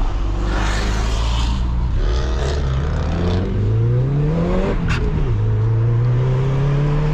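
Subaru Legacy GT's twin-scroll turbocharged EJ20 flat-four accelerating hard. The engine note climbs, drops with a click at an upshift about five seconds in, then climbs again through the next gear.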